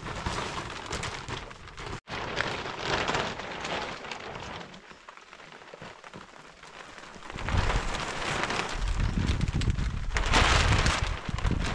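Rain falling steadily. From about seven seconds in, a deep rumble and louder hiss come in, as wind gusts buffet the microphone.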